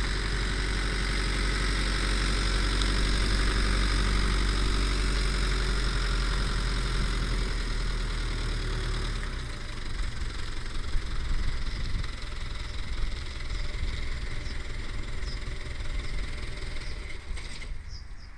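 Mitsubishi Canter FE648E truck's 4D35 four-cylinder diesel engine running steadily at idle. About nine seconds in, the sound turns rougher and more uneven, with less deep rumble.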